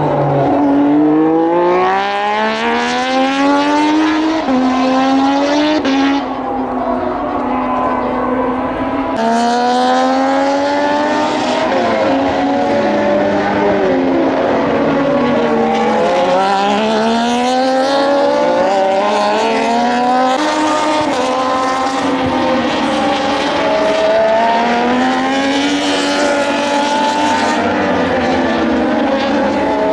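Several Moto2 race bikes with Triumph 765 cc three-cylinder engines on track, their engine notes overlapping, climbing in pitch and dropping back again and again as they pass and shift gears.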